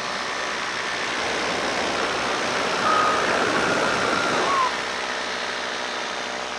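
Paramotor engine and propeller running steadily in flight, with wind rushing over the microphone. The sound swells slightly in the middle and eases back about four and a half seconds in.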